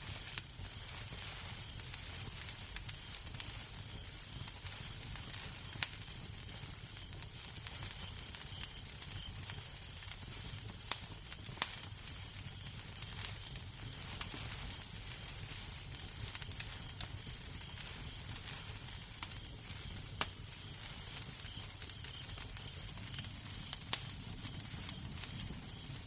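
Fireplace fire burning with a steady hiss and low rumble, and scattered sharp crackles and pops every few seconds.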